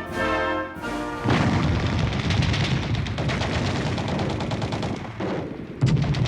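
Battle sound effects: rapid, sustained gunfire like machine-gun fire mixed with booms. It begins about a second in, after a brass orchestral passage ends.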